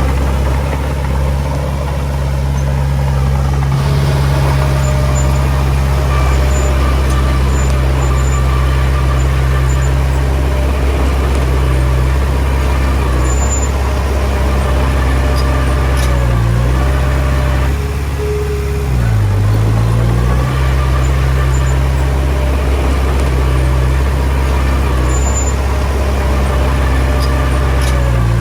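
Small crawler bulldozer's diesel engine running steadily under work. Its note dips briefly and recovers a few times, about halfway through and near the end.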